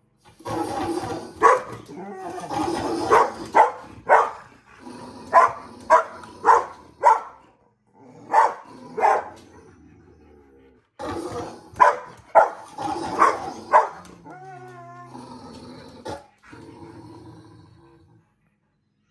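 Pet dog barking, about fifteen sharp barks in loose runs.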